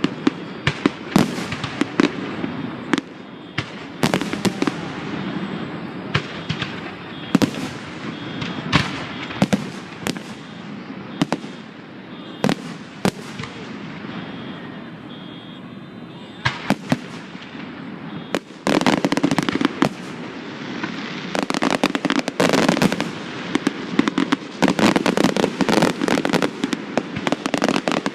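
Aerial fireworks going off: separate loud bangs, often with a crackling or fizzing tail, about one every second or two. From about two-thirds of the way through comes a rapid barrage of many bursts close together.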